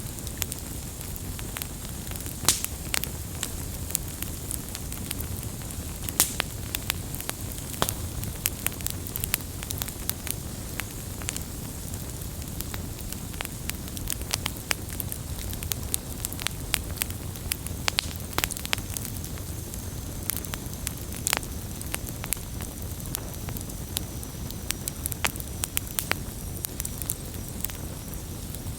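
Wood campfire burning, with a steady low rumble and frequent sharp pops and crackles at irregular intervals.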